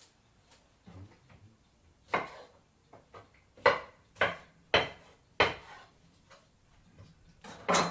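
Kitchen utensils and dishes knocking and clattering while food is prepared: a sharp knock about two seconds in, four more in quick succession over the next couple of seconds, and a louder clatter near the end.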